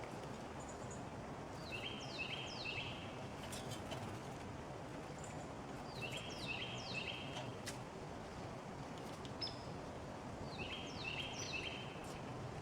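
Tufted titmouse singing its whistled 'peter-peter-peter' song: three quick two-part notes, each sliding down and then holding, repeated three times about four to five seconds apart. A few faint clicks fall between the songs over a steady outdoor hiss.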